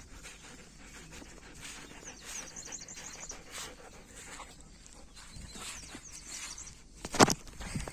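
Outdoor sounds with small birds chirping in short runs, and a single sharp, loud knock about seven seconds in.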